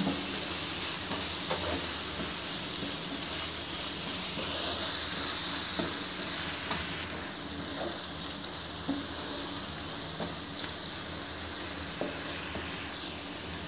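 Onion-tomato masala with spice powders sizzling in hot oil in a nonstick pan, with a few faint scrapes of a wooden spatula stirring it. The steady sizzle drops a little in level about halfway through.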